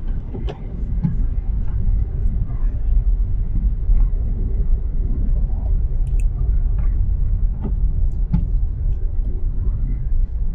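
Car driving on a snow-covered city street, heard inside the cabin: a steady low road and engine rumble, with a few sharp knocks, two of them close together near the end.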